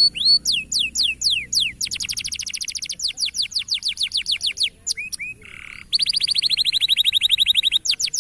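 Local canary singing: rolls of fast, downward-sweeping whistled notes, a short buzzy note about five seconds in, then a rapid high trill held for nearly two seconds.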